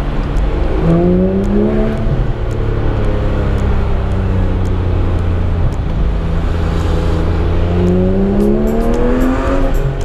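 Porsche 991 GT3 flat-six engine on its stock exhaust, heard from the cockpit while driving in traffic. The revs climb about a second in, ease back and run steady, then climb again over the last couple of seconds before dropping at the end.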